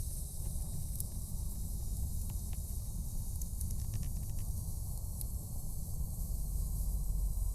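Wood campfire burning, with scattered sharp crackles and pops over a steady low rumble and hiss.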